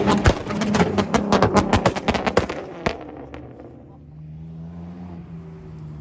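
A car engine running, with a rapid string of sharp clicks and pops for the first three seconds or so, then a quieter steady low hum that rises slightly in pitch.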